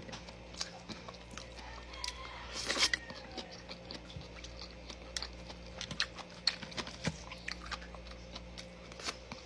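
A person chewing food close to the microphone: scattered soft clicks and smacks of the mouth, with a short louder rustle about two and a half seconds in.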